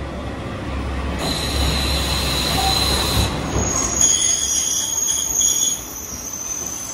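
Red JR West local train running in along the station platform: a steady low rumble of the cars on the rails with high-pitched squealing that starts about a second in and shifts to a higher squeal about halfway through.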